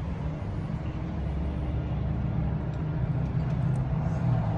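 A steady low mechanical hum, like an engine running, with a few faint light clicks over it.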